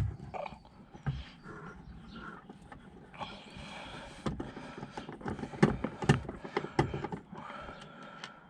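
Scattered light clicks and knocks from hand tools and plastic trim being handled on a car door's interior panel, thickest around five to seven seconds in.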